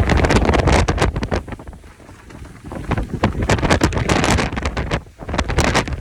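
Strong gusty Santa Ana wind buffeting the microphone with crackling rustle, easing for about a second around two seconds in and dropping briefly near the end before gusting back.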